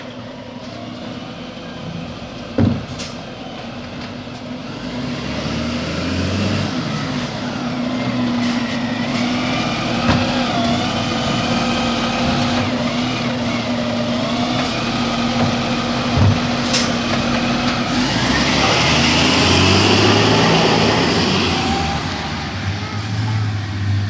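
Garbage truck at work: its diesel engine runs and revs under a steady mechanical whine, with a couple of sharp knocks. A louder rushing noise builds for a few seconds near the end.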